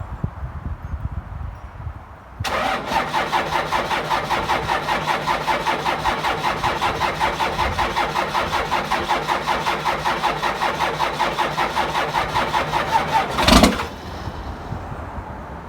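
Starter cranking the cold 5.9-litre 12-valve Cummins inline-six diesel of a 1997 Dodge 2500, a fast, even pulsing that goes on for about eleven seconds without the engine settling into a run. It ends in a short loud burst and stops. The engine is cold-soaked at 10° without its block heater plugged in, which makes it slow to fire.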